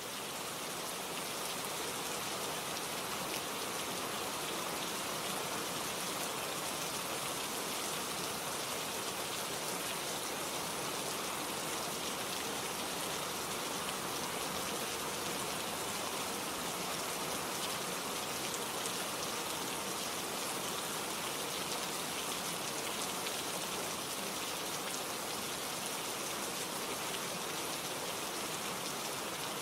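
Steady rain, an even hiss of many drops that keeps the same level throughout, with no thunder or breaks.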